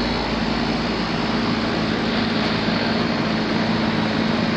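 Outdoor residential air-conditioning condensing units running, a steady fan rush with a constant compressor hum.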